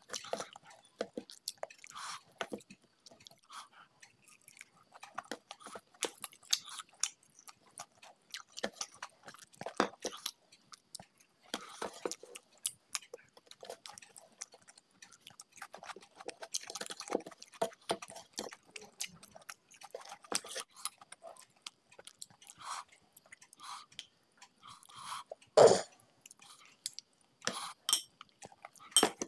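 Close-miked chewing and wet mouth clicks of someone eating mutton curry and rice by hand, with one louder thud near the end.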